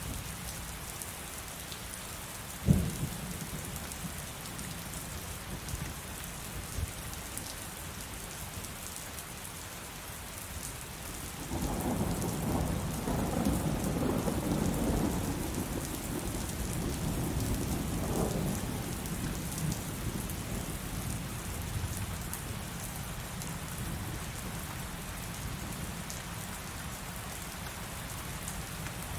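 Steady heavy rain falling, with one sharp crack a few seconds in and a long roll of thunder that builds about a third of the way through, swells again a few seconds later, and dies away slowly.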